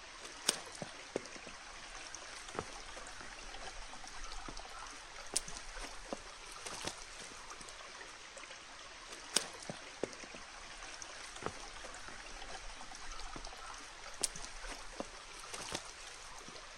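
Creek water running over rocks, a steady hiss, with a dozen or so sharp clicks and knocks scattered through it.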